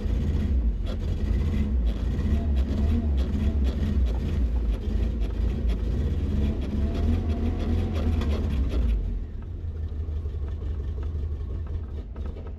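1990 Toyota Space Cruiser's petrol engine running lumpy after being started to test a newly fitted accelerator pedal. It settles quieter and duller about nine seconds in.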